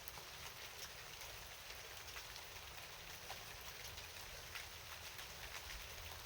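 Steady night rain, with many separate drops ticking over a constant patter and a low rumble underneath.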